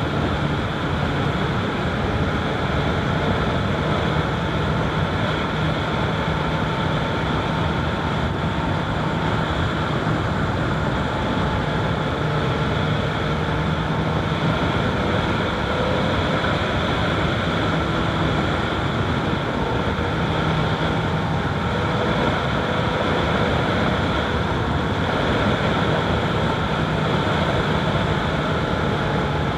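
Honda CBR1000RR SP's inline-four engine running at a steady cruise while the motorcycle is ridden, its pitch shifting only slightly, with some wind noise over the microphone.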